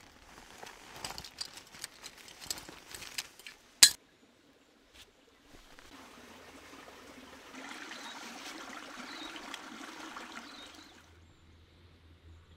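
A run of small clinks and knocks of things being handled, ending in one sharp, loud click about four seconds in. Then, after a short quiet gap, water pours steadily for about three seconds and stops.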